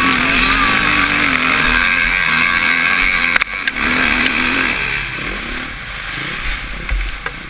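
Suzuki RM-Z450 motocross bike's single-cylinder four-stroke engine running hard under throttle, picked up by a helmet camera, its pitch wavering; it eases off about five seconds in, with a few sharp knocks along the way.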